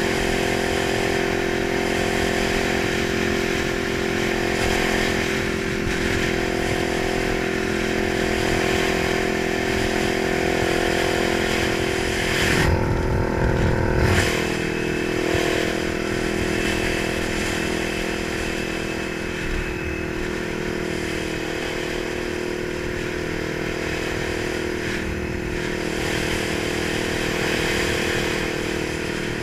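Kawasaki 900 motorcycle engine running steadily at an even pitch, with a brief rush of low noise about 13 seconds in.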